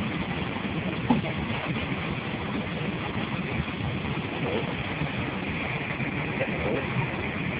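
Steady roar of an airplane cabin, engine and airflow noise heard from inside.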